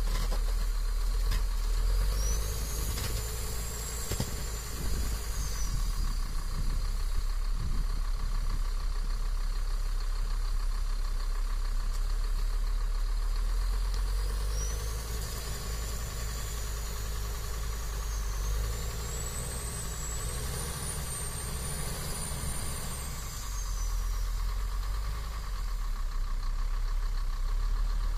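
Heavy vehicle engine running steadily with a low rumble, joined twice by a faint high whine that rises and falls.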